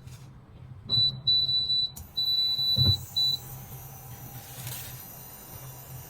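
Electric cooktop's control panel beeping as it is switched on: several beeps on one high tone, some short and some held, over the first few seconds, with a dull thump near the last beeps. From about two seconds in a steady whirring hiss sets in, the cooktop's cooling fan running.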